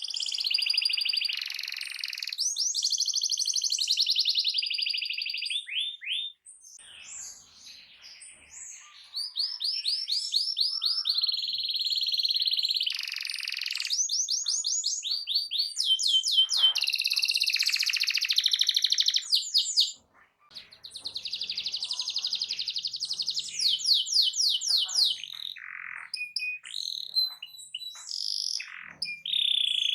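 Domestic canary singing a loud, long song of rapid trills and rolling phrases, broken by short pauses about six and twenty seconds in.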